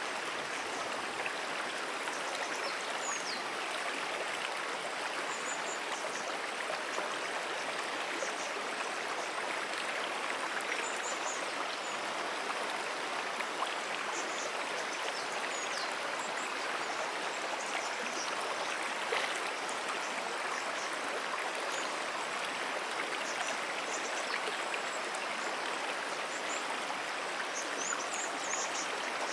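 A brook's water running steadily over its bed, an even rushing sound. Faint short high chirps come and go above it.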